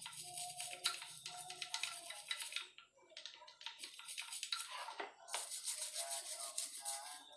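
Brush scrubbing motorcycle engine parts clean in quick, rapid strokes, with a short pause about three seconds in, over background music.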